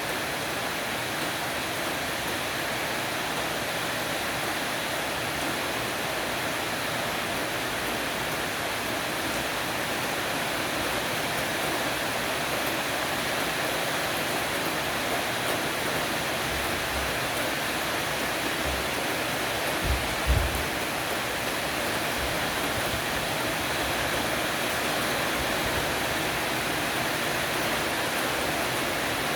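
Heavy rain shower falling steadily on a porch roof, an even hiss of dense drops. A couple of brief low thumps break in about two-thirds of the way through.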